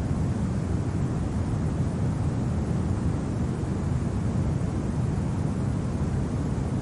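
Steady low rumble of winter wind, an even noise with no gusts, crackles or other distinct events.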